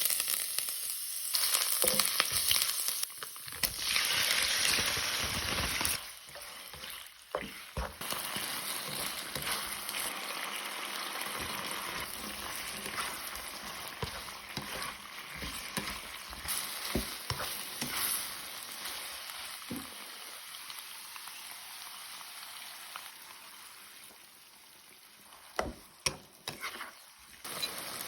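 Stir-fry sizzling in hot oil in a pan while it is stirred, with scattered clicks and scrapes of the utensil. The sizzle is loudest in the first six seconds and eases off later, with a few sharper clicks near the end.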